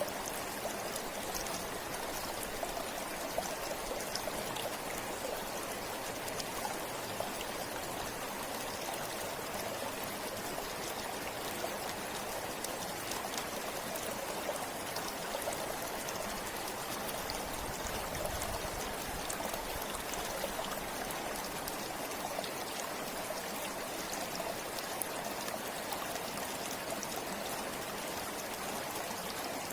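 A river or stream running steadily over rocks, a continuous rushing of water with small splashes and trickles throughout.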